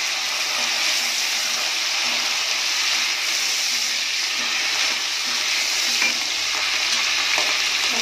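Green chillies and curry leaves sizzling steadily in hot oil in an aluminium pressure cooker while being stirred with a metal spatula.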